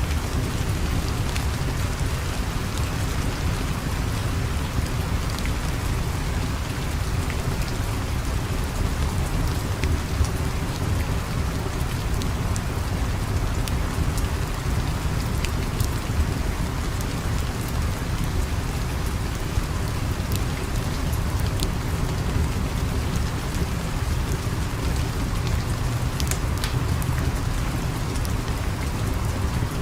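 Steady rain with a constant low rumble underneath and scattered sharp ticks.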